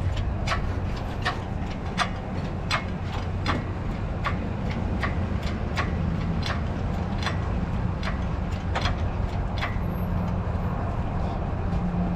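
A steady low engine rumble with a series of short, sharp clicks or taps, about one or two a second, fewer toward the end.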